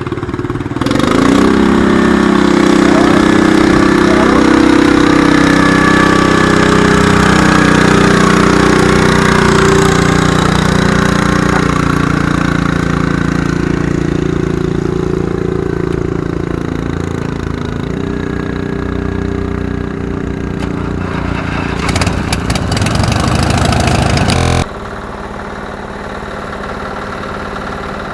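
Garden tractor engine revving up about a second in and running hard under the load of a pulling sled, its pitch gradually falling as it works. Near the end it drops abruptly to a much quieter idle.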